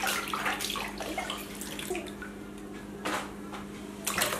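Water sloshing and splashing, with sharper splashes about three seconds in and again near the end.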